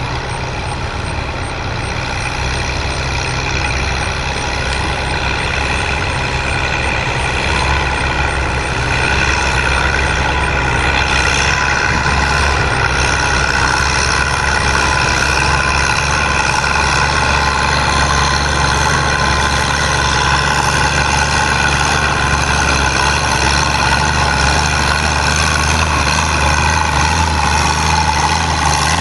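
Antique farm tractor's engine running steadily at one pitch, growing louder about a third of the way through and staying loud.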